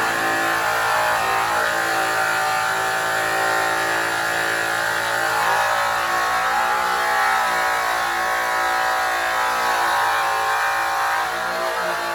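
Electric polisher (a Makita GA7021 angle-type machine) spinning an airway buff against an aluminum truck wheel during the cutting stage, a steady motor whine whose pitch sags slightly about halfway through.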